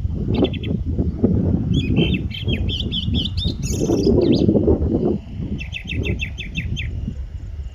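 Strong wind buffeting the microphone in a heavy rumble, with birds chirping over it: a short burst of notes, a longer warbled phrase, then a fast run of about nine repeated notes near the end.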